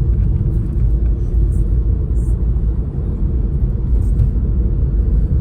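A steady, loud low rumble with no clear tone, with a few faint ticks above it.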